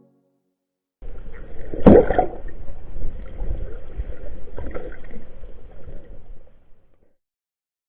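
Muffled water sloshing and gurgling, with one sharper splash about two seconds in, fading out near the end.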